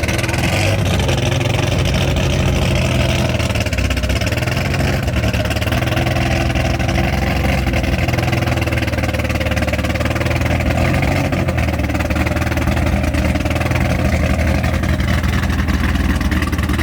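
A loud performance-car engine running steadily at low revs, a deep rumble that barely changes in pitch.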